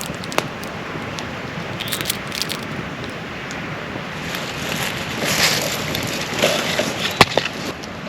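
Campfire crackling over a steady rushing noise, with scattered sharp pops and one louder snap about seven seconds in.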